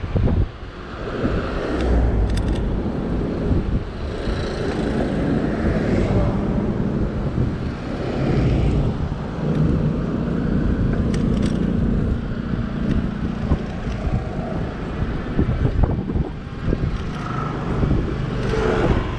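Wind rushing over the microphone of a riding e-bike, with rumbling road and car traffic noise and occasional rattling clicks.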